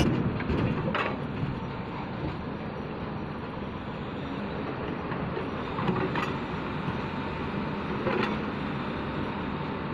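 Dump truck running steadily, with three short knocks or clanks about a second in, around six seconds in and around eight seconds in.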